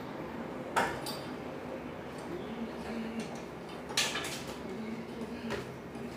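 A few sharp metallic clinks and knocks of stove parts and tools being handled, the loudest about four seconds in.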